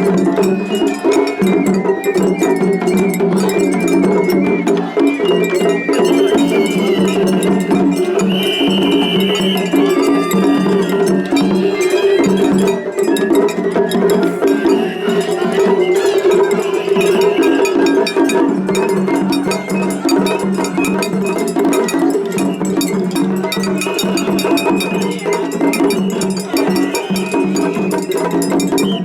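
Two Japanese festival hayashi ensembles playing against each other at once: a fast, continuous clanging of atarigane hand gongs over high shinobue flute phrases and a steady drone.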